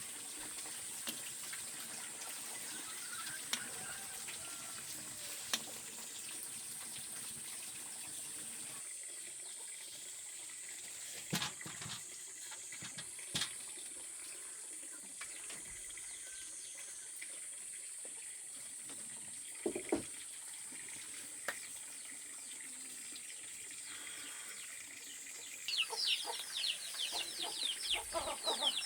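A steady hiss like running water, with a few sharp knocks. In the last few seconds, chickens cluck.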